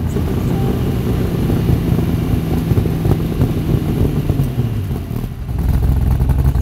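Ford GT40's V8 engine running hard, heard from inside the cabin; the revs ease off briefly about five seconds in, then build again near the end.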